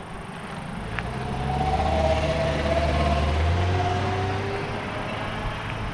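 A motor vehicle passing close by: its engine hum and tyre noise swell for a couple of seconds, then fade, over a steady rush of road and wind noise.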